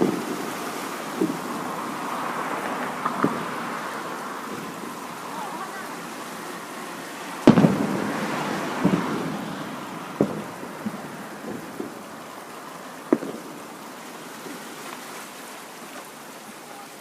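Fireworks shells bursting: a run of separate booms, the loudest about seven and a half seconds in, over a steady hiss.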